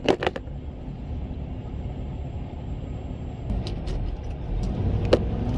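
Tractor-trailer diesel engine idling, heard from inside the cab: a steady low rumble that grows louder about halfway through, with a few sharp clicks near the start and one near the end.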